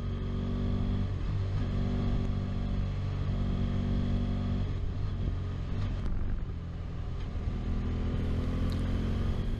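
Motorcycle engine running under way while riding, heard from on the bike, with a steady low drone whose note shifts a couple of times.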